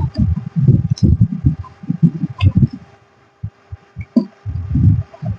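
Irregular low rumbles and bumps with a few light clicks, from handling at a workbench while an IC is being desoldered, over a faint steady hum. It goes quiet for a moment about three seconds in.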